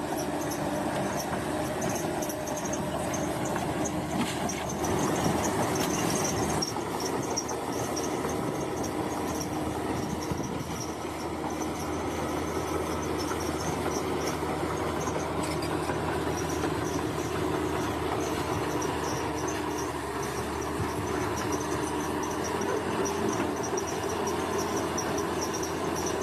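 Bulldozer's diesel engine running steadily as the machine works, with the clank and squeal of its steel crawler tracks. Insects chirp in a high pulsing trill over it.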